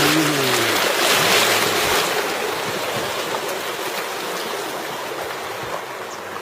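Steady rush of flowing water, loudest in the first couple of seconds and gradually fading.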